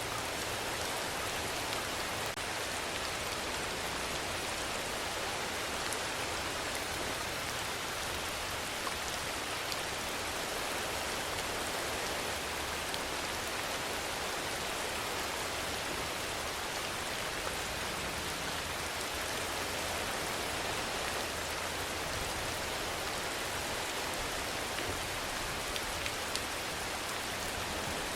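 Steady, even rainfall: a dense hiss of drops with a few sharper single drop ticks here and there.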